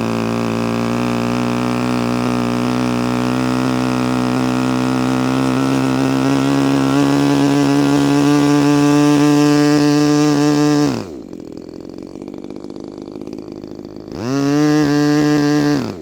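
Small single-cylinder petrol model-airplane engine, being broken in, running at high throttle with its revs creeping slowly upward. About 11 seconds in it is throttled back to a quieter idle, then revved up again at about 14 seconds and dropped back to idle near the end. Its carburetor is still out of tune.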